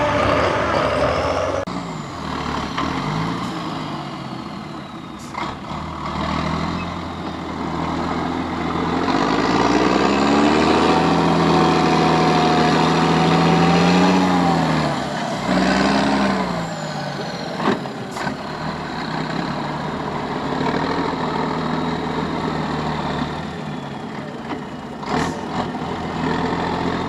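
Heavy competition truck's diesel engine working under load, revving up about a third of the way in and holding high revs for several seconds. It then drops, revs briefly again, and settles to a lower steady run. A few sharp clicks cut across it.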